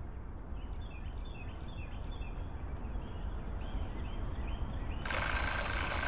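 Birds chirping in short repeated calls over a low rumbling background. About five seconds in, a louder hiss with high steady tones cuts in suddenly.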